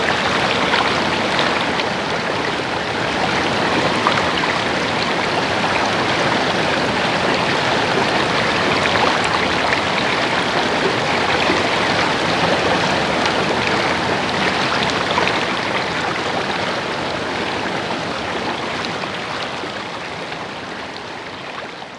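Running water babbling steadily, slowly fading out over the last several seconds.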